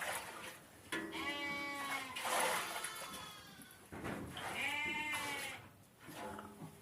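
Two long bleats from the sheep-and-goat herd, one about a second in and one about four seconds in, with a brief harsh noise just after the first.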